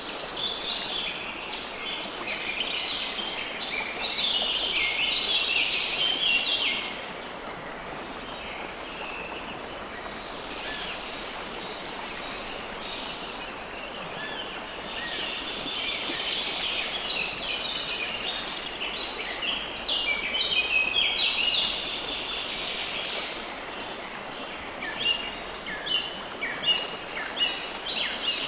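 River water flowing steadily, with songbirds chirping over it. There are runs of rapid chirping in the first several seconds and again midway, and separate sharp chirps near the end.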